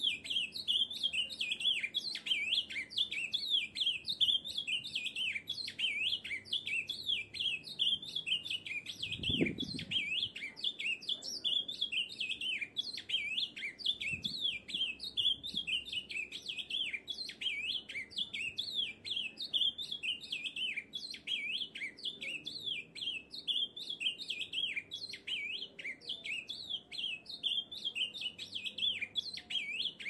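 Ultramarine grosbeak (azulão) singing: an unbroken run of quick, high chirping notes, several a second.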